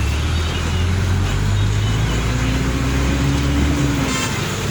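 A car on the move: a steady low drone of engine and road noise, with a faint tone that comes and goes in the middle and a short high sound about four seconds in.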